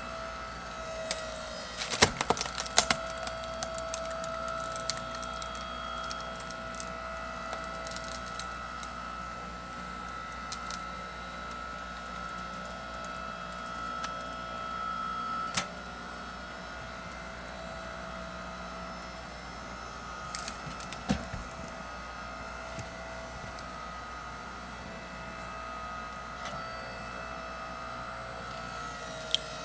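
Engine-driven hydraulic log splitter running with a steady whine while logs split with sharp cracks and splintering several times, loudest about two seconds in.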